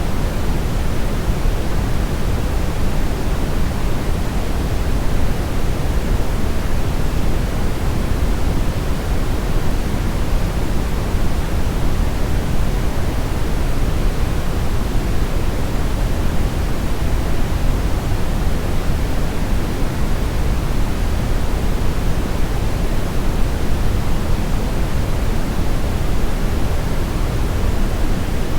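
Synthetic brown noise: a steady, even rush with its weight in the deep low end, thinning toward the highs, with no changes or events.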